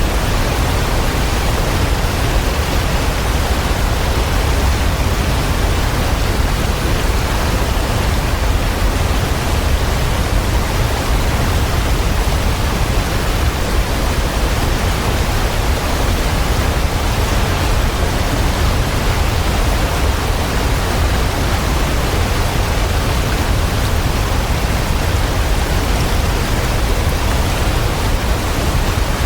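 Waterfall: a steady, even rush of falling water with a strong low rumble.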